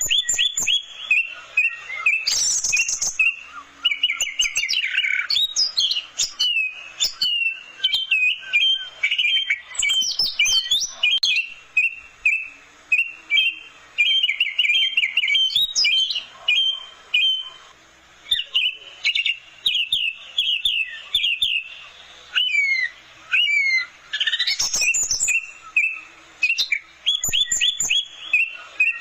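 Orange-headed thrush (anis merah) singing a fast, varied song of chirps and whistled slurs, in phrases with short pauses between them.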